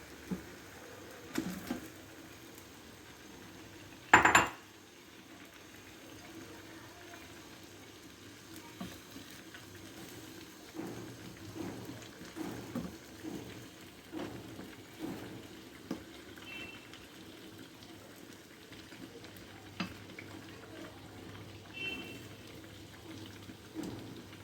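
A metal spoon knocking and clattering against a cooking pan as boiled chicken pieces go into the spice paste, with one loud clang about four seconds in. After that comes repeated scraping and clinking of the spoon stirring in the pan.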